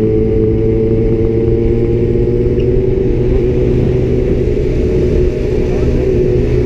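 Honda CB Twister motorcycle engine running steadily at cruising speed, heard from the rider's seat, with heavy wind rumble on the microphone.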